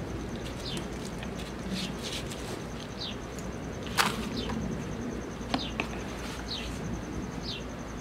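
A bird repeating a short, falling chirp about once a second, over the soft scraping of soil being dug through in a plastic drum with gloved hands and a plastic pot. A sharp tap comes about four seconds in, and a fainter one a moment later.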